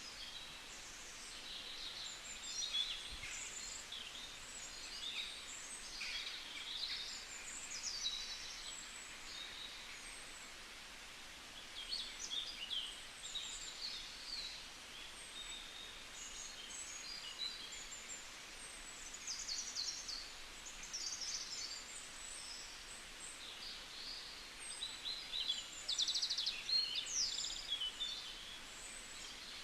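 Many small birds chirping and calling at once, short high calls overlapping without a break, over a steady hiss.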